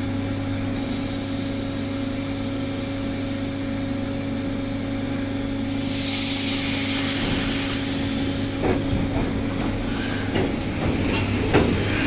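ED9M electric commuter train with a steady electrical hum. A hiss starts about six seconds in, and from about nine seconds on there are scattered knocks and clatter.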